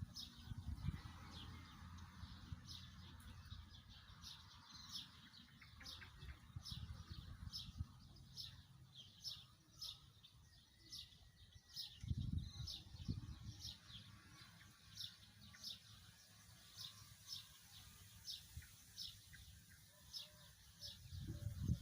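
A small bird chirping repeatedly: short high chirps at a steady pace of roughly two a second, with a faint low rumble underneath that swells briefly about halfway through.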